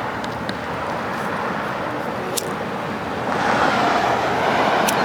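Ground spinner firework lit and hissing: a steady rushing hiss that swells louder about three seconds in, with a few sharp crackles.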